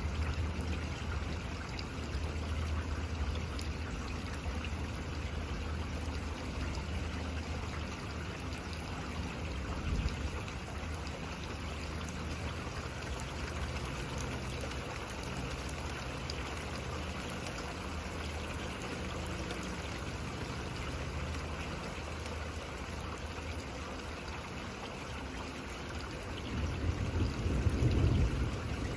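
Steady rain falling in a thunderstorm. Low thunder rumbles through the first third, and a louder roll of thunder swells and fades near the end.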